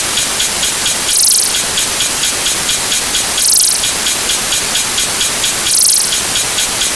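A dense wash of many sound effects looped and layered at once, blurring into a steady rain-like noise. A fast row of ticks runs under it, and a brighter hissing burst comes back about every two and a half seconds.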